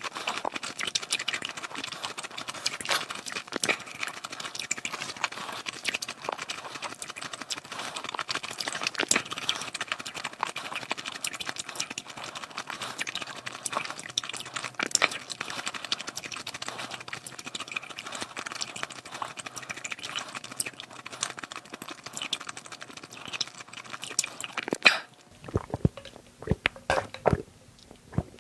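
Close-miked chewing: a dense, continuous run of small mouth clicks and smacks as a mouthful is eaten. About 25 seconds in it gives way to fewer, louder, lower knocks.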